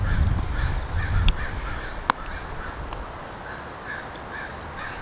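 A bird calling in a steady run of short notes, about three a second, possibly a crow. A low rumble fills the first second and a half, and there is a single sharp click about two seconds in.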